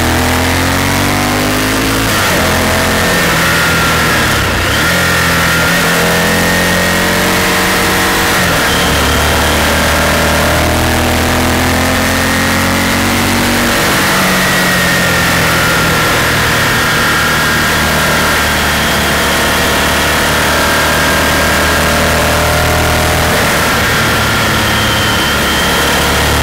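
Honda Varadero's V-twin engine under way on the motorcycle, its note rising and dropping several times as the rider accelerates and backs off through curves. Steady wind rush runs under it.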